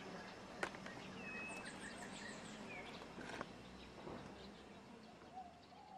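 Small birds chirping faintly: a quick run of high falling chirps and a short whistled note, over a faint low steady hum. A single sharp click about half a second in.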